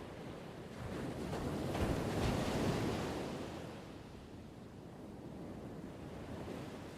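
Ocean waves breaking and washing ashore. One wave swells about a second in, is loudest around two to three seconds, then recedes, with a smaller wash near the end.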